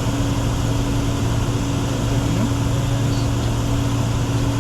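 Steady flight-deck noise of a Bombardier Challenger 604 business jet in flight: a constant rush of airflow and engine and air-conditioning noise with two steady low hums.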